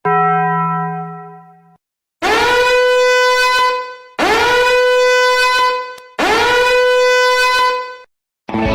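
A blown horn: a first note fading out over about two seconds, then three long steady blasts of about two seconds each, each one sliding up into its pitch at the start.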